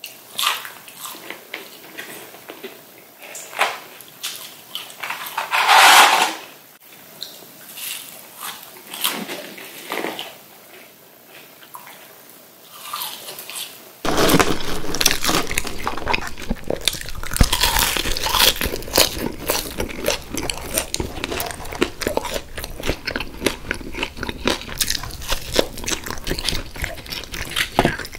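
Close-miked mouth sounds of eating McDonald's french fries and chicken nuggets: chewing and crunching. The bites are sparse at first, then denser and louder from about halfway through.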